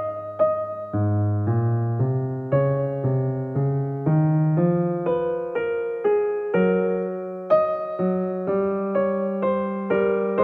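Background music: electric piano playing a slow melody of struck notes over sustained low bass notes.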